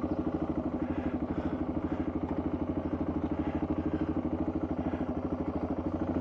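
Motorcycle engine running steadily at low speed, its exhaust beating in an even, fast pulse.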